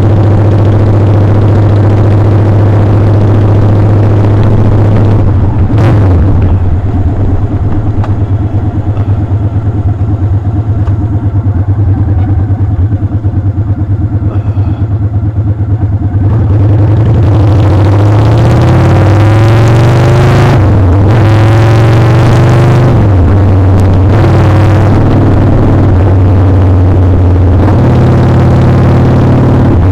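Motorcycle engine running under way, loud. Its pitch drops about five seconds in, then rises and falls several times in the second half as the rider revs and shifts, before settling to a steady pitch again near the end.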